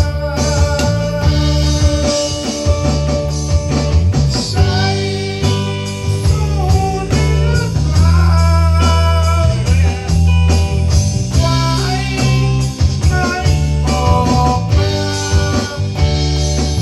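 Band music: guitar over held bass notes with a regular beat.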